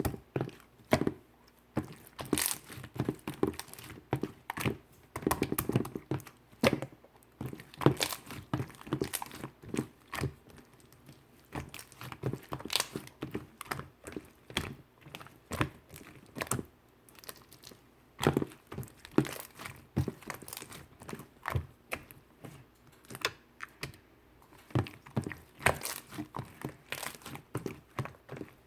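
A chewy slime being squeezed, stretched and poked by hand, making irregular sticky clicks and crackling pops.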